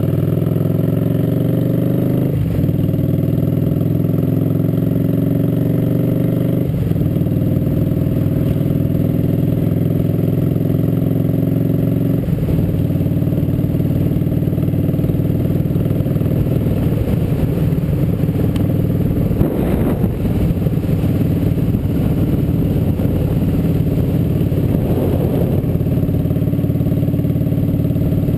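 Cruiser motorcycle engine accelerating up through the gears, its pitch climbing and then dropping at each of three upshifts, about 2, 7 and 12 seconds in, then running steady at cruising speed.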